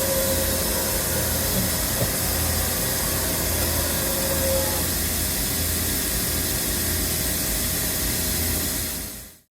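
Okuma MC-V4020 CNC vertical mill running under power: a steady hiss over a low pulsing hum with a faint whine. The sound cuts off shortly before the end.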